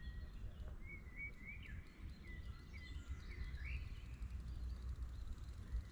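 A songbird singing a run of short chirps and quick rising and falling notes, over a steady low rumble.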